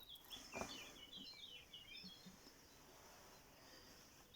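Faint birdsong: a quick run of short, high chirps in the first couple of seconds, over near silence, with a faint soft knock about half a second in.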